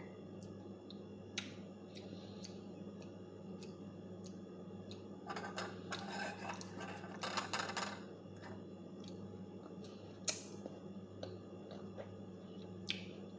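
Sour mango slices being chewed, with a run of quick crunching from about five to eight seconds in and a few scattered clicks as pieces are picked from the plate, over a steady low hum.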